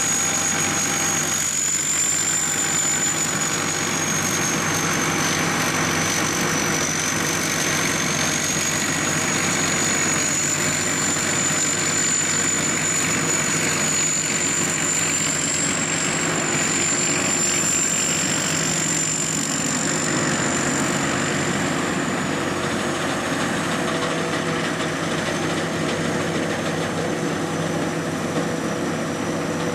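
SS-200 A rice combine harvester running steadily, its engine and machinery giving a dense, even noise. A thin high whine runs over it, wavering slightly in pitch.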